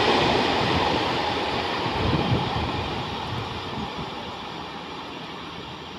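Freight train of container wagons rolling away, its rumble and wheel noise fading steadily as it recedes.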